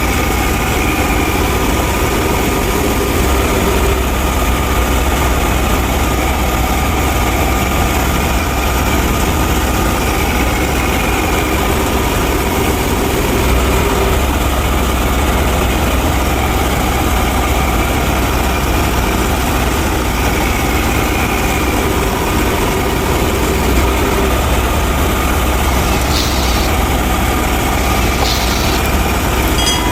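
An engine idling steadily, like a tractor, with a deep low hum and no change in speed. A few brief high ticks come near the end.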